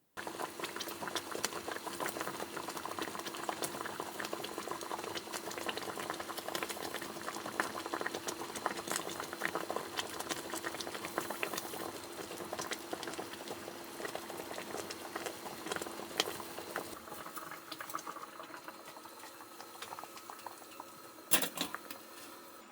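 Liquid bubbling hard on a stove, with a dense crackle of small pops that slowly dies down over the last several seconds. There is a sharp click near the end.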